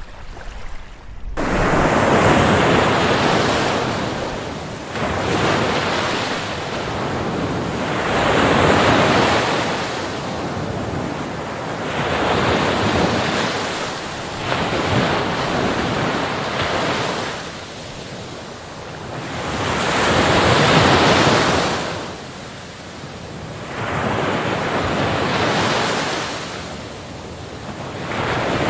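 Ocean surf: waves breaking on a beach, each swelling up and easing back every three to six seconds. The surf cuts in abruptly about a second in, after a quieter stretch.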